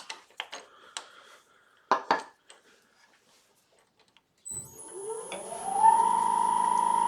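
Wood lathe starting up: its motor whine rises in pitch for about a second and a half, then runs steady at speed. A few light knocks and clatters come before it.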